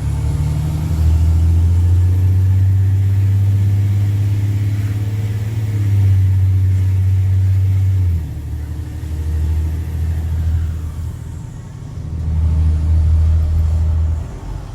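Straight-piped Cummins C8.3 inline-six diesel of a school bus pulling under load, its open exhaust loud and deep. The note drops off about eight seconds in, builds again, and drops once more near the end.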